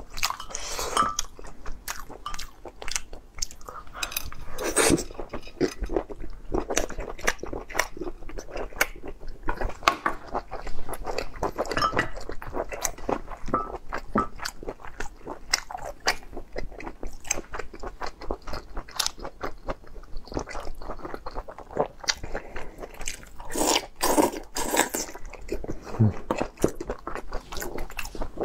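Close-miked chewing and crunching while eating crab, with many small crackles and wet mouth sounds and a few louder crunches along the way.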